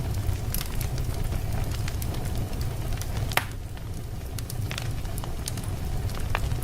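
Wood fire burning in a fireplace: a steady low rumble of flames with scattered crackles and pops, one sharp loud pop about three and a half seconds in.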